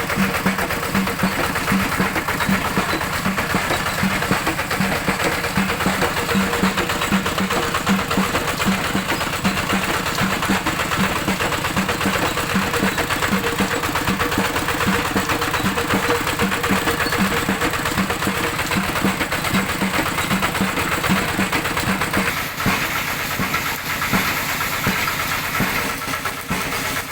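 Old Kubota tractor's diesel engine running steadily, with an even, repeating pulse under a hiss of noise.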